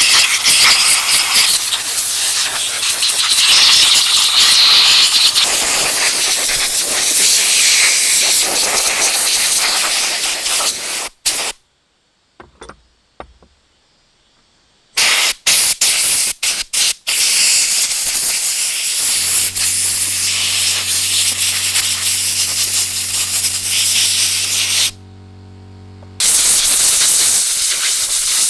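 Loud steady spraying hiss, cut off abruptly several times, with a low steady hum beneath it for several seconds in the second half.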